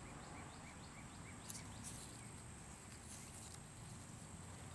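Faint outdoor ambience: a bird chirping in a quick series of short rising chirps, about four a second, stopping a little over a second in, then a few faint rustles over a steady high hiss.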